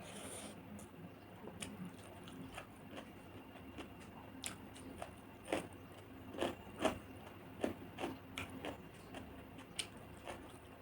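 Close-miked eating sounds: chewing with irregular wet mouth clicks and smacks, several a second at times, and a short noisy crunch or slurp right at the start.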